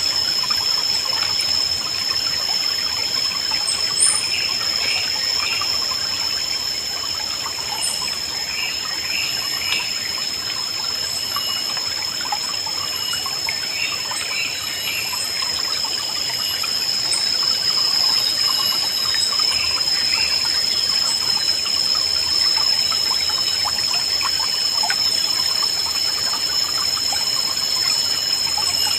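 A shallow river babbling and trickling steadily, with birds giving short chirps in quick groups of two or three every few seconds. A steady high-pitched insect drone runs underneath.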